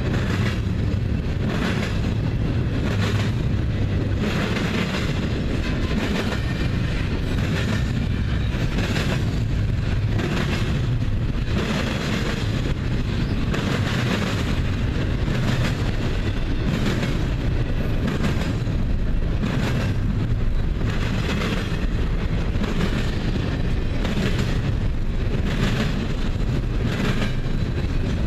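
Double-stack container train rolling past: a steady rumble of rail cars, with the wheels clattering over the track in a regular clickety-clack about once a second.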